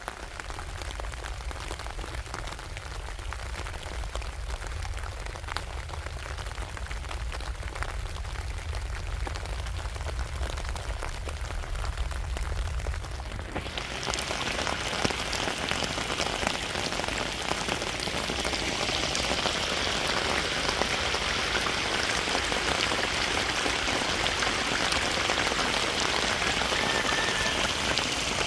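Steady rain falling, a dense patter of drops that becomes louder and hissier about halfway through.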